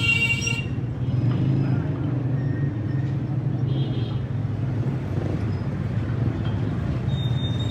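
Outdoor street ambience: a steady low rumble of engines or traffic, with background voices. A short pitched sound right at the start and a couple of faint, brief high tones later.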